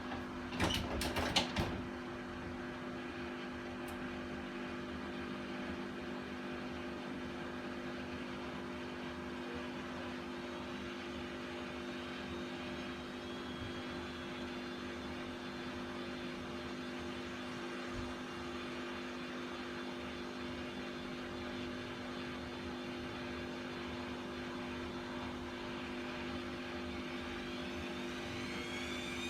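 Bosch WAK28260GB/11 washing machine running its rinse-and-spin cycle: a steady hum with a few knocks about a second in, then a rising whine near the end as the drum motor speeds up toward spin. The machine is suspected of having worn drum bearings.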